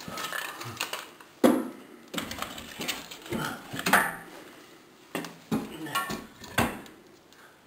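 Split firewood being loaded into a wood stove's firebox, knocking against other logs and the stove's metal: several sharp clunks, the loudest about a second and a half in and around four seconds in, with lighter knocks near the end.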